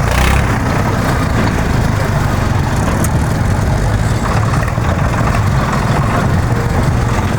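Tractor diesel engine running steadily, a constant low engine sound with road and mechanical noise over it.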